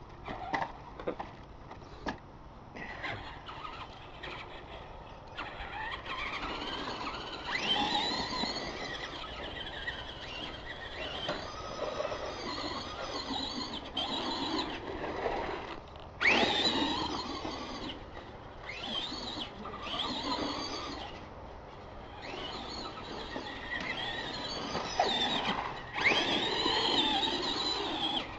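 Radio-controlled monster trucks' electric motors and gears whining, rising and falling in pitch as the trucks speed up, slow and stop in short runs.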